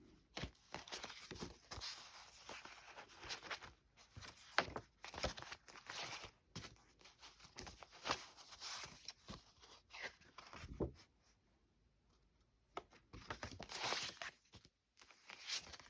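Paper greeting cards being handled: faint, irregular rustling and crinkling of card and paper, with a quiet stretch about two-thirds of the way through.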